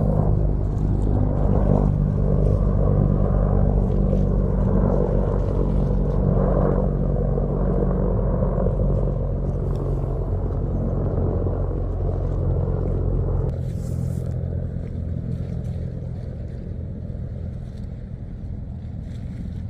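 Ship's engine humming steadily with a rushing noise over it; the deepest rumble drops away suddenly about two-thirds of the way through and the sound then fades.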